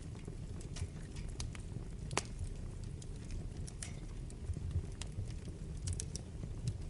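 Wood fire burning in a fireplace: a steady low rumble of the flames with irregular sharp crackles and pops from the burning logs, the loudest pop about two seconds in.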